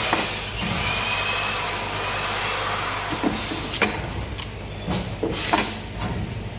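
Pneumatic turntable tray sealing machine running: a steady mechanical din with a low hum, and a few sharp clacks with short high hisses between about three and six seconds in.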